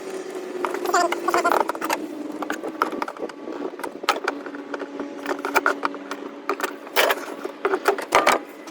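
Hand tools clicking and clattering against metal clamps and plastic intake ducting as the air intake bellow is loosened and pulled off a V8 pickup's throttle body, over a steady low hum.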